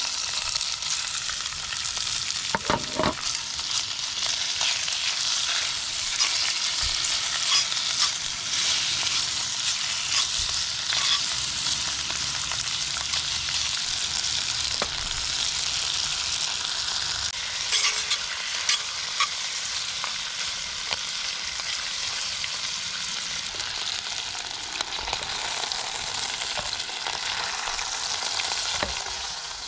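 Food frying with a steady sizzle, broken by scattered clicks and scrapes of a utensil stirring it.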